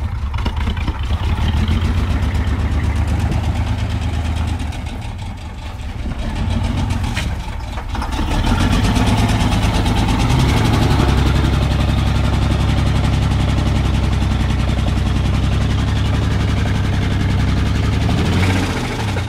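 Chevy S10 pickup engine running rough and loud while being run with no oil pressure. It eases off around five seconds in, then runs louder and steady from about eight seconds until it drops away at the end.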